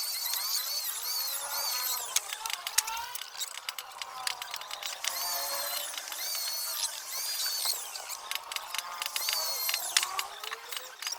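Handheld electric power tool run in three bursts of about two seconds each. Its high whine rises as it spins up and drops as it winds down, with scattered clicks and knocks between the runs.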